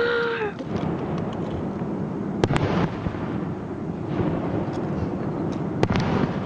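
Fireworks exploding: a continuous rumble of booms, with sharp cracks about two and a half seconds in and again near the end. A brief steady tone sounds at the very start.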